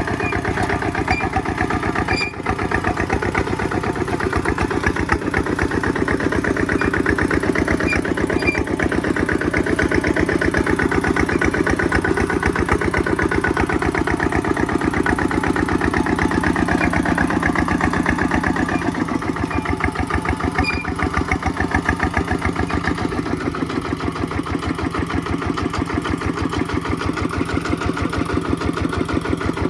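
Kubota tractor's single-cylinder diesel engine running steadily with an even, rapid firing pulse.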